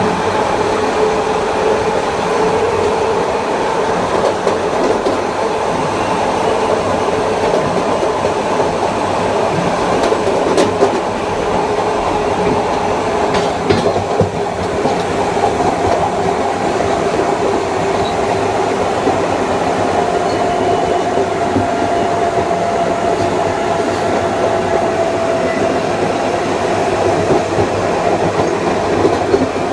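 Kawasaki M9 electric multiple unit running on the rails, heard on board: a steady whine from its Mitsubishi AC traction motors and IGBT-VVVF inverter over wheel-and-rail rumble. A second, higher whine comes in about two-thirds of the way through, and a few sharp clicks from the wheels over rail joints fall near the middle.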